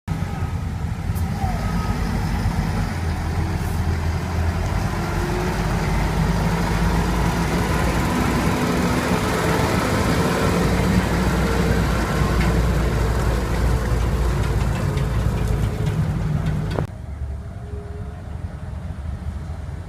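Diesel engine of a UD CWE280 cement mixer truck running steadily, with a deep low rumble. About three-quarters of the way through the sound drops suddenly and runs on more quietly.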